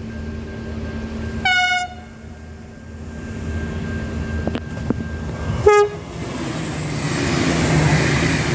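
Passenger train sounding two short horn blasts, about four seconds apart, as it approaches. Then comes the rush of the train passing close by, growing louder near the end.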